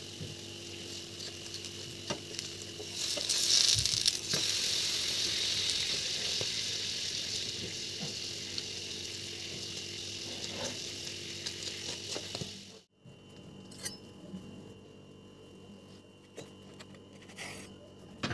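A bread sandwich frying in oil in a nonstick pan, sizzling steadily with a few spatula taps; the sizzle swells about three seconds in and then slowly dies down. It cuts off abruptly near the two-thirds mark, leaving only faint scattered clicks.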